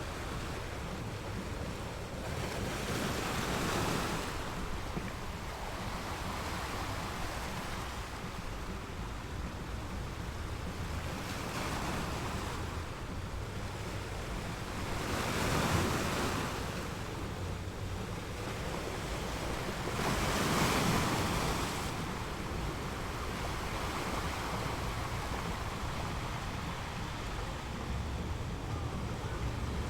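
Sea waves breaking and washing on the shore, a few louder surges rising and falling over a steady wash, the strongest about halfway through and again about two-thirds in. A low rumble of wind on the microphone runs underneath.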